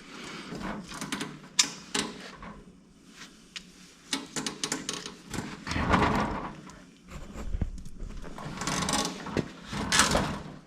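Scattered clicks, clatter and rustling of pliers and hand tools being handled while a wire connector is crimped, with a few louder scraping swells partway through.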